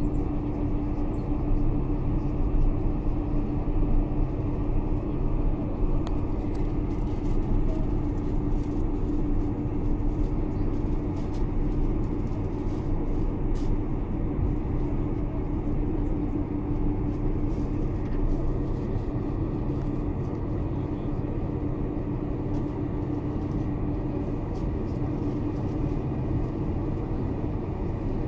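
Steady engine and airflow noise inside the cabin of a Boeing 747-400 airliner, with a constant low hum.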